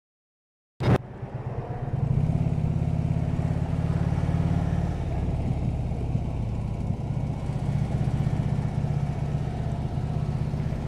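Harley-Davidson Electra Glide's V-twin engine running steadily. It comes in suddenly with a sharp click about a second in, and gets louder about two seconds in.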